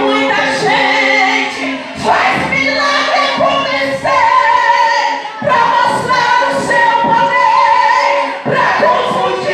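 Gospel choir singing a cappella, several voices holding long sustained notes.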